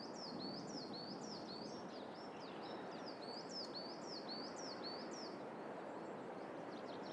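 A small songbird singing a rapid series of high, repeated hooked notes, about two a second, stopping about five seconds in, over a steady faint outdoor background hiss.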